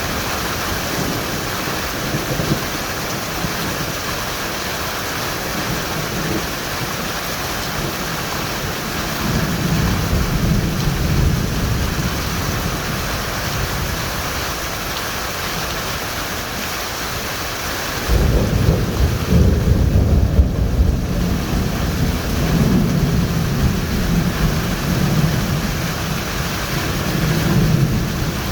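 Heavy rain pouring steadily, with thunder. A low rumble swells about ten seconds in, then a loud thunderclap breaks suddenly about eighteen seconds in and goes on rolling in waves for several seconds.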